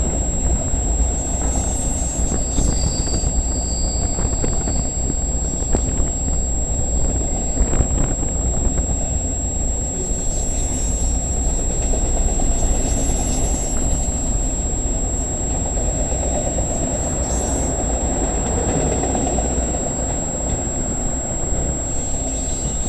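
Freight cars of a CN intermodal train rolling past on the rails: a steady rumble of wheels on track, with wind buffeting the microphone.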